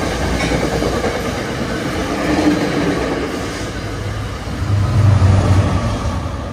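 NJ Transit train hauled by a PL42AC diesel-electric locomotive passing close by: wheels rumbling and clattering over the rails with the locomotive's engine running, loudest about five seconds in and fading toward the end.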